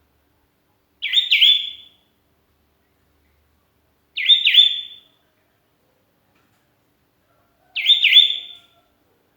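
Sooty-headed bulbul (kutilang) calling: three short, bright phrases of a few quick notes each, about three and a half seconds apart.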